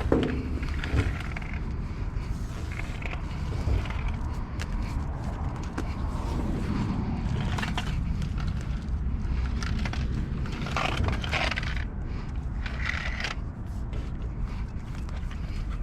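Steady low rumble of the bus's Cat C7 diesel engine running, with scattered crunching and scraping noises and clicks over it.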